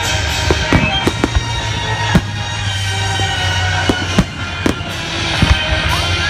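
Fireworks going off: about ten sharp bangs and cracks at irregular intervals.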